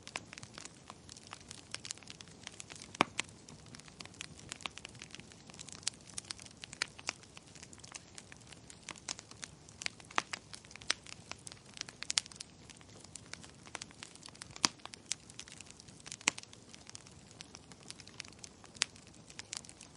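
Wood fire crackling in a fireplace: a steady run of irregular sharp pops and snaps, several a second, over a low hiss.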